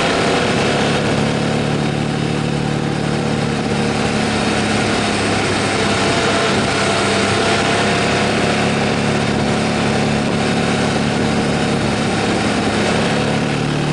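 Motorcycle engine running steadily while riding, under a constant rush of wind noise.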